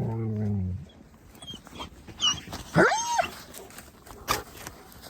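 Dogs vocalising: a short low grumble at the start, then about three seconds in a single whine that rises and falls in pitch, followed a second later by a sharp click.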